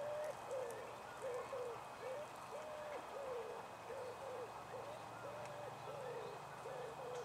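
A pigeon cooing: a phrase of several soft, low notes (a held note, a falling note, two short notes and a rising note) repeated three times.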